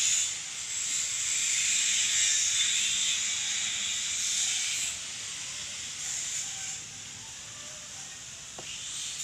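Spray paint hissing in a steady spray, louder for the first five seconds and then going on more softly.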